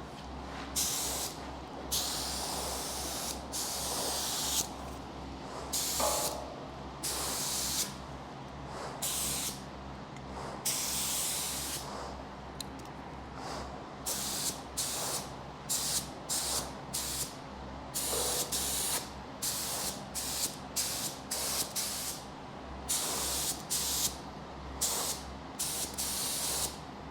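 Spray gun laying epoxy primer onto a truck frame, hissing in repeated trigger pulls: a few longer passes of a second or two, then many short bursts about a second apart.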